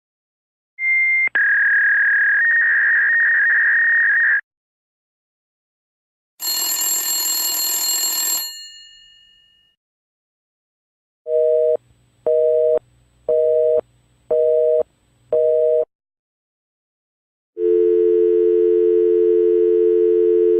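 A string of telephone sound effects: a high steady electronic tone for about three and a half seconds, then a single high bell-like ring that dies away, then five pulses of a busy signal about one a second, and near the end a steady low dial tone.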